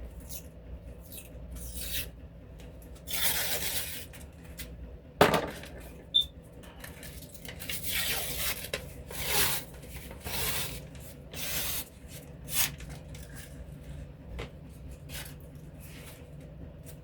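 Refrigerated biscuit-dough can being worked open by hand: the paper wrapper of the cardboard tube rubbing and tearing in repeated rustling bursts, with a sharp knock about five seconds in.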